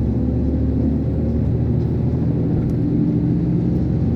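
Iveco concrete mixer lorry's diesel engine pulling under load as the truck accelerates slowly through the low gears, a steady low drone.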